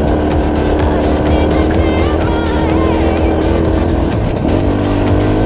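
Dirt bike engine running steadily under way, with a brief change in pitch a little after four seconds in. Background music plays over it.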